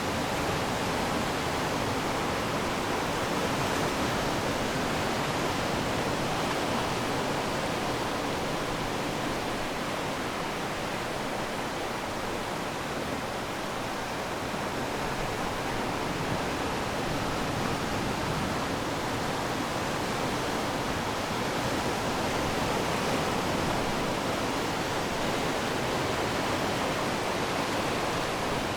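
Ocean waves washing onto the shore, a steady rush that swells and eases slightly in loudness.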